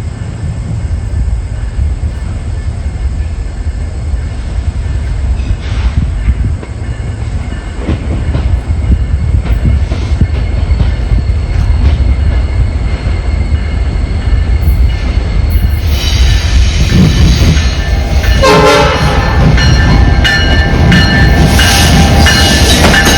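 Canadian National diesel freight train passing: the locomotives' low rumble builds steadily. From about two-thirds of the way in, high steady squealing from the wheels and rail clatter come in as the cars roll by.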